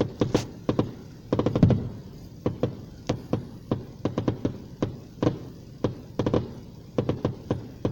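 Fireworks going off: a rapid, irregular string of bangs and pops, some bunched into quick crackling clusters.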